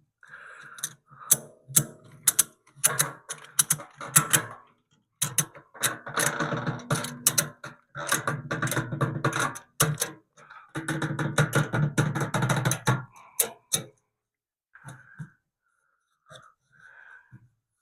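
Tool work with a rapid clicking mechanism, ratchet-like, in three bursts of a few seconds each. A steady low hum runs under the clicking. It stops about three-quarters of the way through, and only a few faint short sounds follow.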